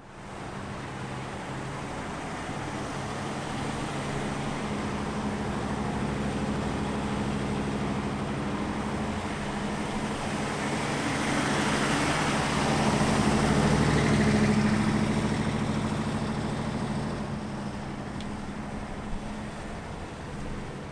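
1957 Ford Thunderbird E-Code's 312 V8, fed by two four-barrel Holley carburetors, running steadily. It grows louder to a peak about two-thirds of the way through, then eases off.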